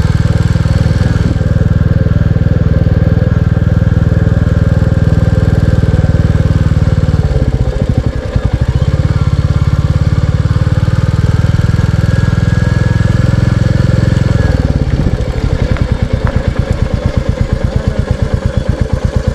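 Royal Enfield Classic 350's single-cylinder engine running on the move, with a brief dip about eight seconds in. About fifteen seconds in it drops to an even, slow thump at low revs.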